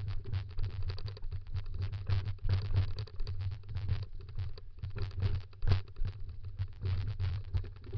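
Dog scooter rolling over a rough dirt trail: constant irregular rattling and clatter over a low, fluctuating rumble, with one louder knock about six seconds in.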